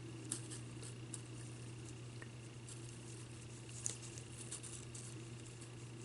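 Faint, scattered small clicks and taps of metal tweezers picking up and placing gold foil flakes, over a steady low electrical hum.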